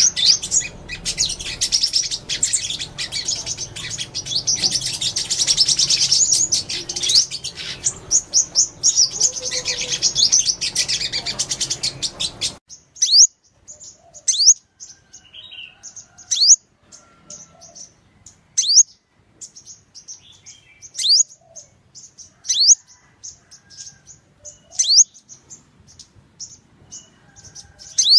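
Sunbirds calling: dense high chattering and twittering over background noise, which cuts off abruptly a little under halfway through. After that come clearer, spaced calls, sharp high notes that fall in pitch about every second and a half, with short ticks between.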